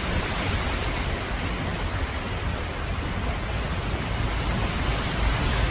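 Steady rush of a heavy hail and rain downpour, with a low rumble of wind on the microphone.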